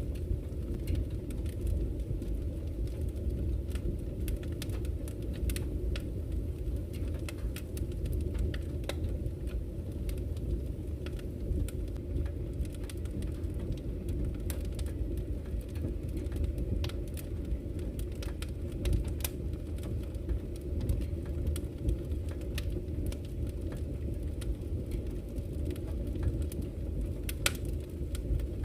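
Campfire crackling, with sharp pops and snaps scattered irregularly and a louder pop near the end, over a steady low rush of flowing river water.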